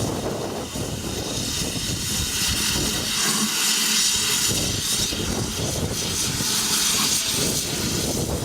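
Steam train running past, a steady rushing noise with a strong hiss.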